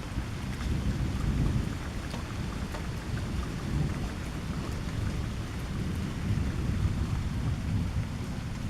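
Thunderstorm: rain falling steadily under a long, rolling rumble of thunder that swells about a second in and again later on.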